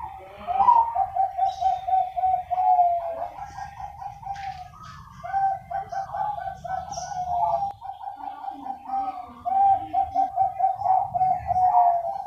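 Several Bangkok-type zebra doves (perkutut) cooing in rapid, rippling phrases that overlap as they answer one another, with brief breaks between bouts. A low rumble runs underneath.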